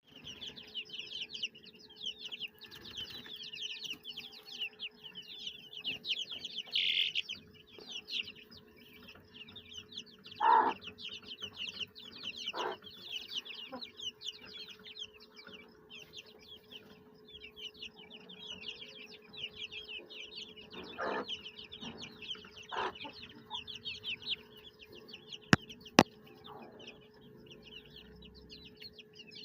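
Many five-week-old chicks peeping constantly in short, high, falling notes, with a few louder, lower calls now and then. Two sharp clicks come a few seconds before the end.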